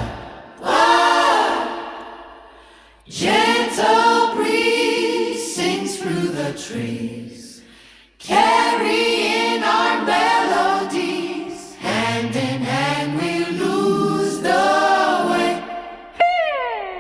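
Doo-wop vocal group singing harmonies a cappella, in held phrases with short breaks and no bass or band underneath. A sung note slides downward near the end.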